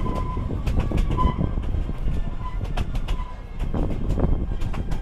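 Narrow-gauge excursion train heard from inside a moving open passenger car: a steady low rumble from the wheels on the track, with many sharp clicks and brief high squeals.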